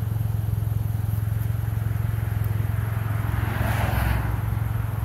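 A car engine idling through a loud exhaust: a steady low, pulsing drone. A car passes on the road about three and a half seconds in.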